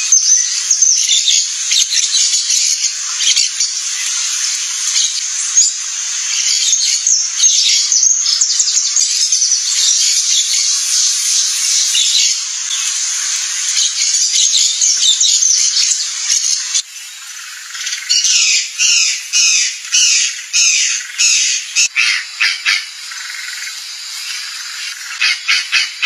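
Birds calling: a dense run of high, overlapping chirps and squawks, which gives way about two-thirds of the way in to separate sharp calls, a few a second.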